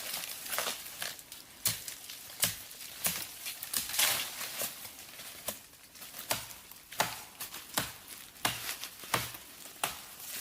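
Irregular crackling and rustling: sharp crackles or taps about once or twice a second, some with a dull low thud underneath.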